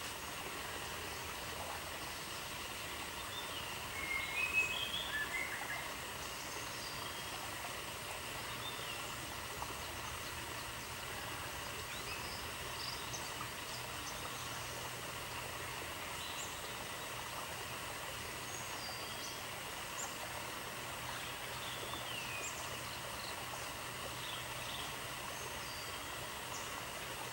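Steady outdoor background hiss with scattered short bird chirps, and a louder flurry of bird calls about four seconds in.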